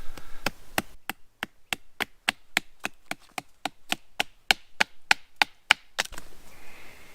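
A blade chopping into a split piece of wood: a quick run of about twenty sharp, even strikes, roughly four a second.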